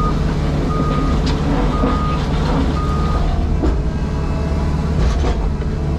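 JCB Pothole Pro's diesel engine running, heard from inside the cab, with a warning alarm beeping about once a second for the first three seconds and then stopping. A few sharp knocks come through over the engine.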